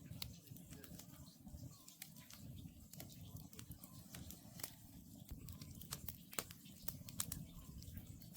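Wood campfire burning, with a low steady rumble and irregular sharp crackles and pops from the burning logs; a few louder pops come in the second half.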